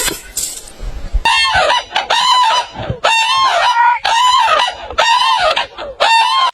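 A chicken calling over and over, about one short arched call a second, starting just over a second in.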